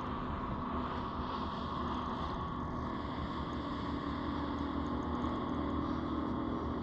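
A motorboat engine running with a steady hum, under low wind rumble on the microphone.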